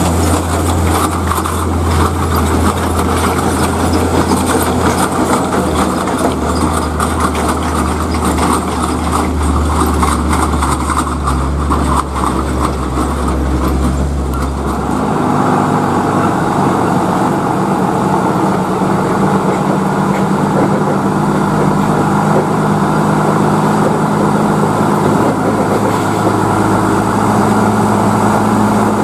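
Diesel engine of a heavily loaded tronton truck running under load. About halfway through, the deep engine note gives way to a higher-pitched one.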